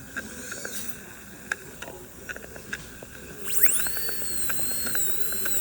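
Light clicks of dental instruments, then about three and a half seconds in a dental handpiece with a diamond burr spins up: a high whine that rises quickly in pitch and then holds steady at speed.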